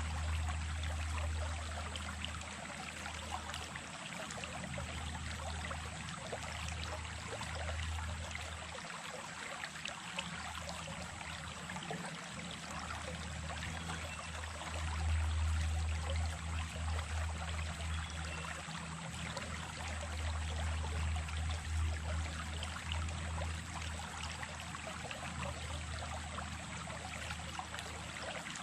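Small stream running, a steady rush of water with a deep rumble underneath that swells and fades every few seconds.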